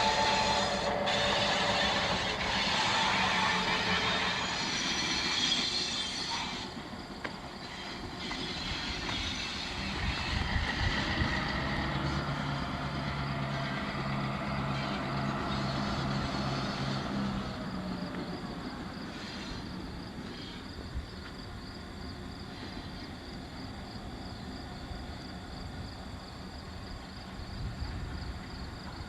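Freight train rolling past: railroad cars and wheels clattering and rolling, with some wheel squeal. The noise drops after about six seconds to a quieter steady rumble, with a low engine-like hum for several seconds in the middle.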